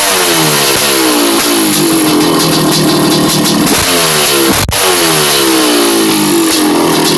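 Freshly rebuilt Honda CR500 two-stroke single-cylinder dirt-bike engine being revved, the revs falling away and picking up again several times. There is a brief break a little under five seconds in.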